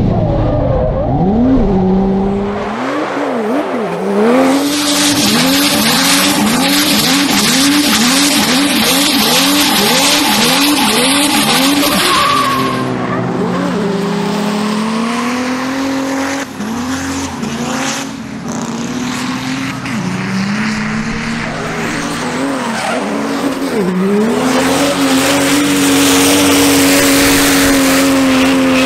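Mercedes-Benz OM648 3.2-litre turbodiesel straight-six of a W203 drift car, revved over and over in quick rises and falls, about two a second. Near the end it is held at high revs under a loud tyre squeal as the car drifts.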